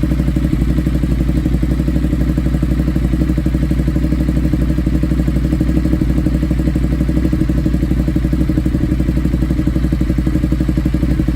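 Ducati Multistrada 1200's V-twin engine running steadily through an SC-Project exhaust with the dB killer removed. The pitch holds steady with an even, rapid pulsing and no revving.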